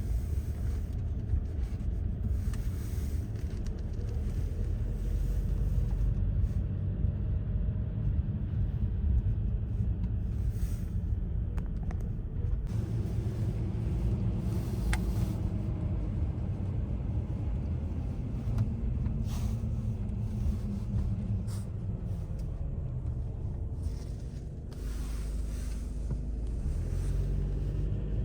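Motor vehicle rumbling steadily, a low engine and road drone whose pitch slowly falls around the middle.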